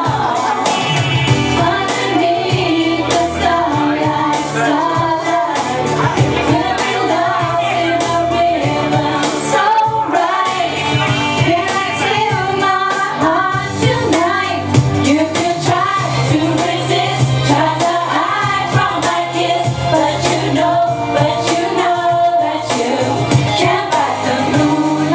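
Karaoke: a singer singing into a microphone over a pop backing track with a steady beat.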